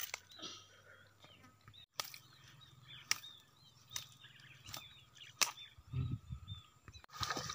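Birds chirping with many short repeated calls, broken by a few sharp clicks and a brief low thump about six seconds in.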